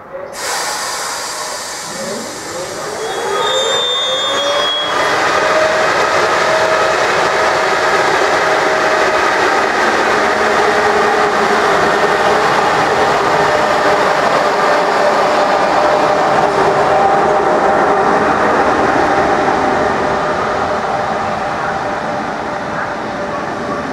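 Electric-hauled EuroCity passenger train moving along the station track, its motors whining in a tone that rises over the first few seconds and then holds steady over the continuous rumble and clatter of wheels on rails.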